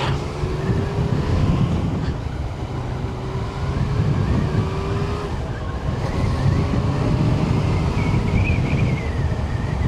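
Yamaha Tracer 900's inline three-cylinder engine running as the bike rides off, with wind noise on the helmet microphone.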